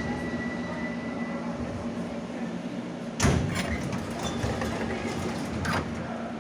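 Pneumatic sliding doors of a stopped 81-717 'Nomernoy' metro car opening with a sudden loud clatter about three seconds in, followed by a shorter knock near the end, over the steady hum of the train's equipment.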